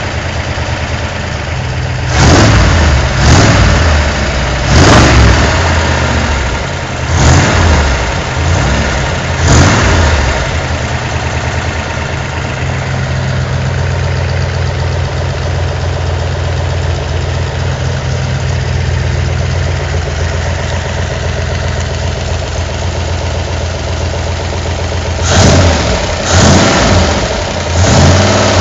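V8 engine and exhaust of a GAZ-24-10 Volga idling while the throttle is blipped about six times in quick succession. It then settles to a steady idle for about fifteen seconds, and is revved three more times near the end.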